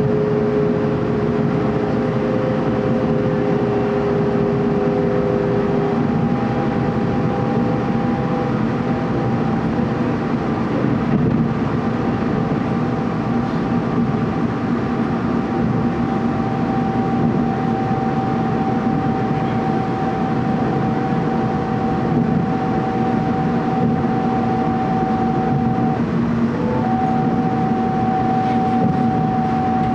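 TEMU2000 Puyuma Express electric train running at speed, heard from inside the passenger car: a steady rumble of wheels and running noise with whining tones over it. A pair of lower tones stops about six seconds in, leaving a single higher whine.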